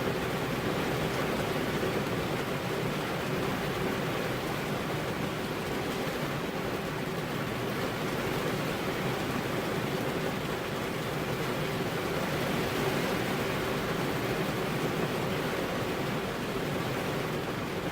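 Steady rain falling on a car's window glass, an even hiss with no separate drops or thunder standing out.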